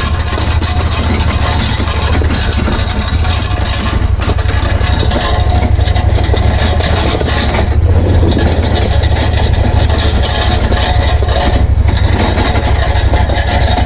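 Engine idling steadily, a constant low rumble.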